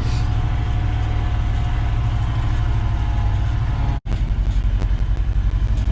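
1973 Ford F-250's 360 V8 engine running at low speed with a steady low rumble. The sound cuts out for a moment about four seconds in, then continues with a more distinct pulsing beat.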